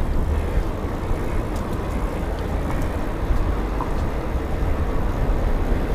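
Steady road noise from a vehicle on the move: a low engine, tyre and wind rumble with no distinct events.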